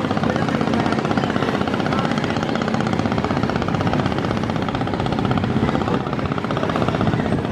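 Diesel engine of a river passenger launch running steadily at speed, with a rapid, even pulsing beat.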